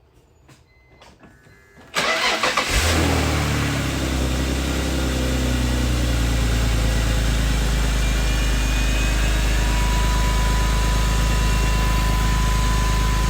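A BMW 330xi's 3.0-litre inline-six is cranked by the starter about two seconds in, catches within a second and settles into a steady idle. It is run so the freshly filled automatic transmission can be shifted through its gears and its fluid level checked with the engine running.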